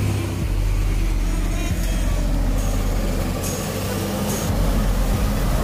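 A four-wheel-drive ute's engine running steadily under load as it drives through a muddy, rutted track.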